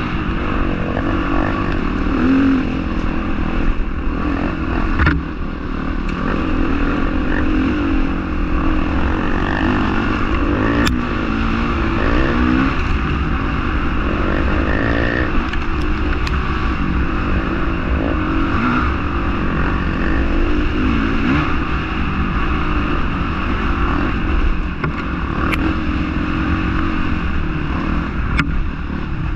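Honda CRF450R's single-cylinder four-stroke engine running as the motocross bike is ridden, its pitch rising and falling with the throttle over a steady low rumble, with a few sharp clicks.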